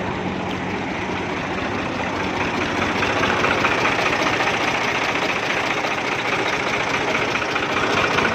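Tractor's diesel engine running steadily, growing louder about three seconds in.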